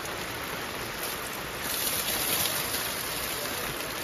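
Heavy rain falling steadily, an even hiss that swells louder about a second and a half in.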